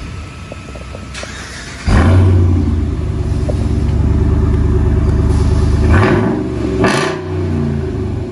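Exhaust of a 2017 Ram 2500's 6.4-litre Hemi V8 with the muffler deleted on its single exhaust. It runs low, is given throttle about two seconds in and holds a loud low drone, then eases and changes pitch around six and seven seconds.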